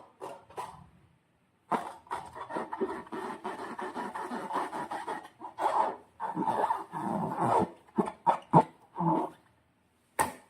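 Slime being squished and worked by hand: wet, crackly squelches with many small pops, in bursts with silent gaps between them.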